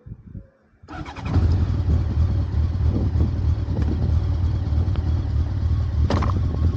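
Honda CBR1100XX Super Blackbird's inline-four engine cuts in suddenly about a second in, then runs with a steady low drone. There is a brief sharp sound near the end.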